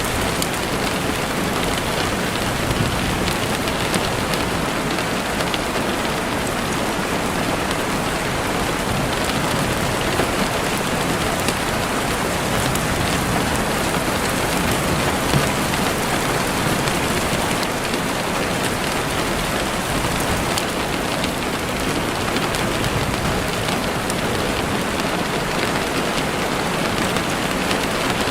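Heavy rain falling steadily on a window, a dense even hiss dotted with small drop ticks.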